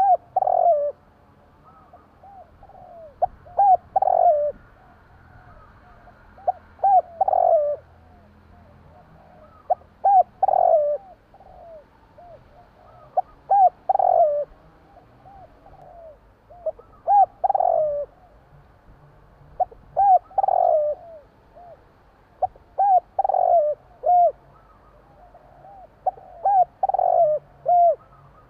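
Spotted dove cooing its song over and over: each phrase is a few short coos ending in one longer, louder coo, repeated about every three and a half seconds.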